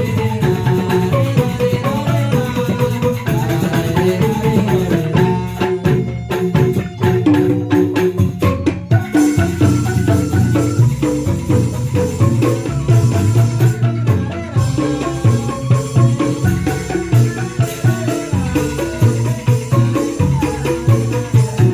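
Instrumental music on tuned mallet percussion, playing a melody over drums, with a dense, fast beat of percussion strikes; the sound changes texture about nine seconds in.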